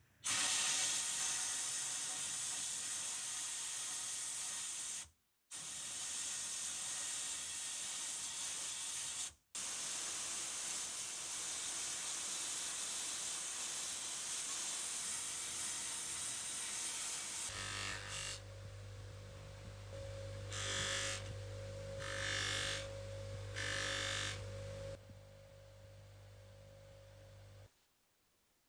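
Workshop power tools at work on metal parts: a steady hiss broken off twice by sudden cuts, then an electric motor running steadily with three short, louder bursts of grinding or brushing.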